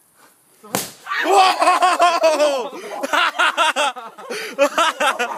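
An aerosol deodorant can bursting in a campfire with a single sharp bang under a second in, followed by people laughing loudly.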